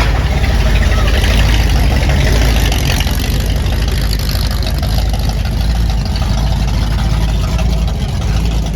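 A vintage sports-racing car's engine idling with a steady, low rumble.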